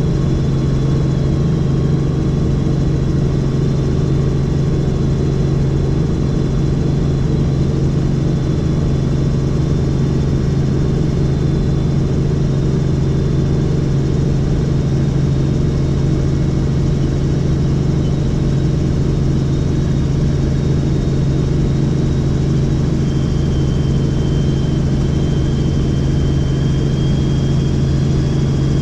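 Helicopter in flight: a steady, loud drone from the rotors and engine, with a thin high whine over it.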